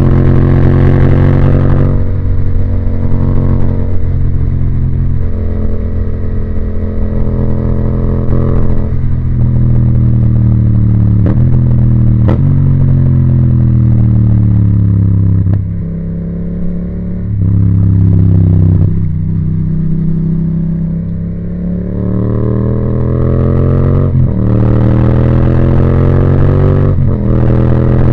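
Yamaha MT-07's 689 cc parallel-twin engine through an Akrapovic titanium exhaust, accelerating through the gears: the pitch climbs, then drops at each shift. Around the middle the throttle closes twice and the engine falls to a lower, quieter note before pulling again.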